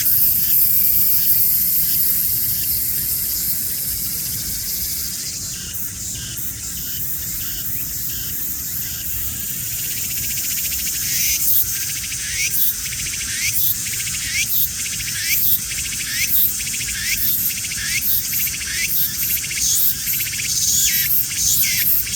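Cicada singing: a high, steady buzz that about a quarter of the way in breaks into repeated pulsing phrases, a little more than one a second.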